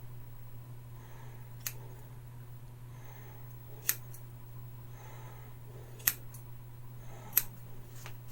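Scissors snipping hair around the ears, four short sharp snips a couple of seconds apart, over a steady low hum.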